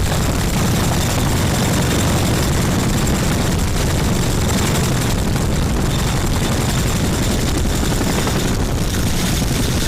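Military helicopter running close by: a loud, steady din of rotor and turbine engines with a faint high whine.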